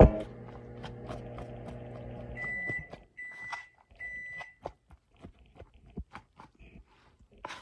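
Microwave oven running with a steady hum that cuts off between two and three seconds in, followed by three short high beeps marking the end of the heating cycle. A sharp click opens the stretch, and light clicks and knocks follow the beeps.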